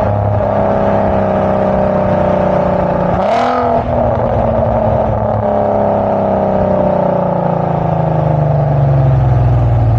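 MK5 Golf R32's 3.2-litre VR6 running through a Magnaflow straight-through muffler fitted in place of the resonator, heard while driving. The note breaks and dips briefly about three seconds in, then sinks slowly in pitch over the last few seconds.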